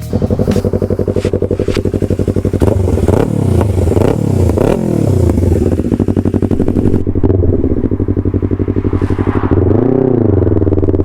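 Yamaha R3's parallel-twin engine through an aftermarket sport exhaust, catching at the very start and running at a pulsing idle. It is revved several times in quick succession a few seconds in, pitch rising and falling, and revved once more near the end.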